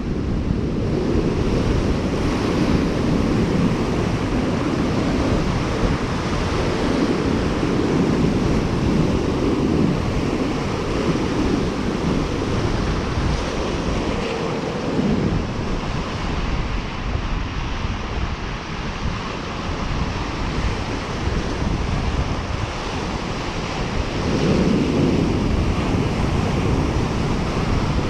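Waves washing onto a lakeshore, a continuous rushing that swells and eases in surges, with wind buffeting the microphone.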